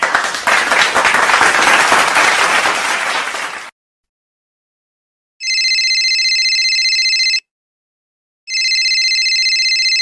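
A group of people clapping, dense and steady, dying away after about three and a half seconds. After a short silence a telephone rings twice, each ring about two seconds long.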